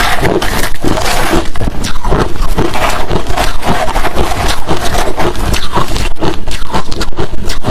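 Hard crushed ice and shaved ice chunks being chewed close to the microphone: a loud, continuous run of rapid crunches, several a second.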